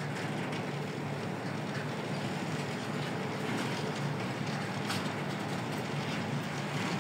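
Freight train wagons rolling past: a steady noise of steel wheels on the rails, with a faint click about five seconds in.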